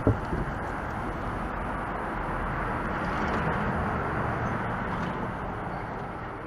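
Honda Vezel Hybrid with an aftermarket ROZA titanium-tail muffler on the move: steady road and drivetrain noise that swells a little in the middle, with a single knock at the start and a fade out near the end.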